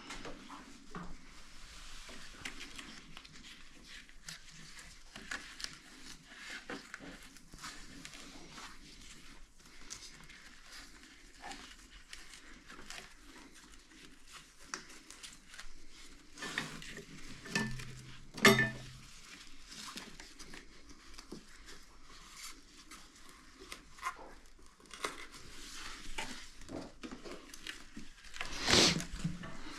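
Hands at work on a bench: steady crinkling and rustling of material with scattered small clicks and taps, a sharp knock about 18 seconds in, and a louder scraping rustle near the end.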